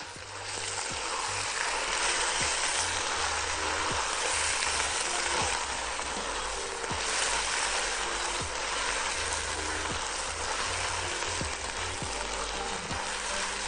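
Diced raw chicken sizzling steadily in hot butter and oil with toasted orzo in a pot, stirred with a silicone spatula.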